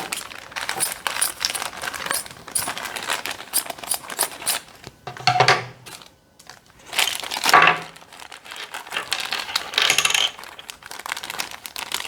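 Plastic packaging crinkling and rustling in irregular bursts as a blind box's contents are unwrapped, with a few louder bursts midway.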